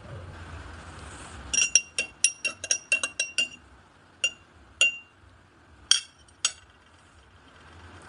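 Utensil clinking against glassware: a quick run of about ten ringing clinks, then four separate clinks spaced out over the next few seconds.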